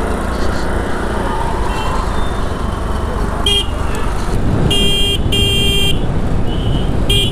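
Riding a motorcycle in road traffic, with a steady rush of wind and engine noise. A vehicle horn honks several times: a short beep about three and a half seconds in, two longer honks around five seconds, and a short beep near the end.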